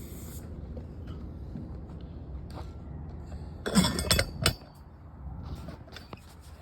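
Handling noise of a camera holder being turned and adjusted: a short cluster of clicks and clinks about halfway through, over a steady low hum.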